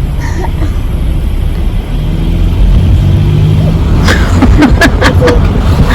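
Car driving, its steady low road and engine rumble heard from inside the cabin, with a few sharp clicks or taps in the second half.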